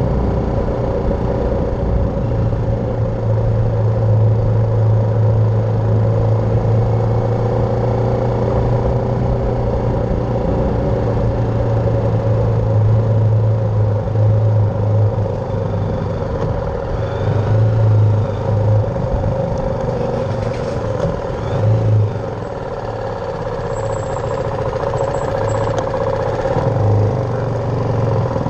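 BMW G310R's single-cylinder engine running steadily while riding, heard from the bike. It eases off for a few seconds about three quarters of the way through, then rises in pitch again near the end as the bike accelerates.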